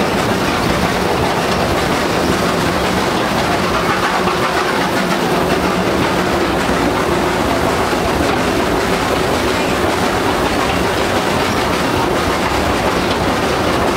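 Theme-park railway train under way, heard from inside an open-sided passenger carriage. The wheels rumble and clatter steadily on the track, with a faint steady hum from the running gear underneath.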